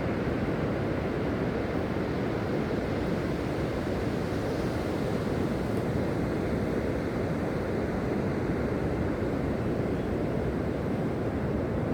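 Steady low noise of sea waves on the shore mixed with wind buffeting the microphone, even and unchanging.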